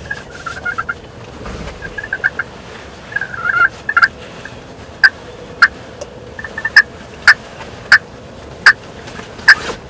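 Wild turkey gobbler gobbling repeatedly in short rattling bursts, fired up at daybreak. In the second half a run of about seven sharp, loud clicks comes roughly every half second.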